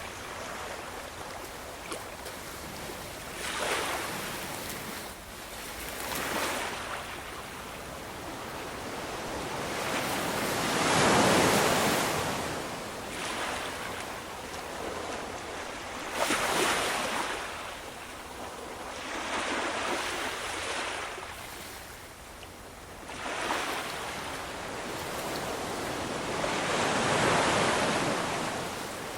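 Ocean waves breaking and washing in, each swell rising and falling every few seconds; the biggest comes about eleven seconds in.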